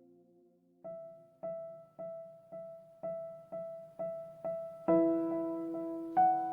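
Background piano music: one note repeated about twice a second, with lower notes joining in, louder, about five seconds in.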